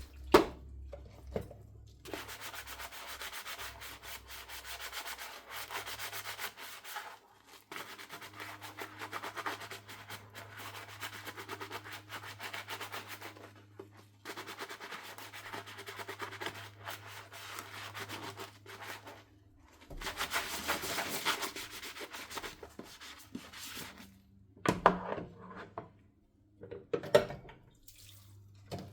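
A dish being scrubbed by hand with a sponge: rapid scraping strokes in long spells with a few short pauses. A few knocks of dishware come near the start and near the end.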